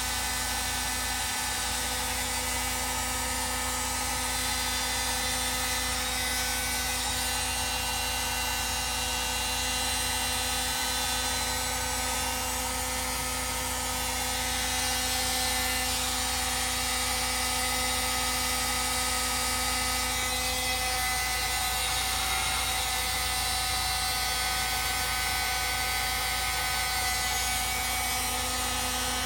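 Steady hum and whine of a running electric motor, even in level throughout and a little louder about halfway through.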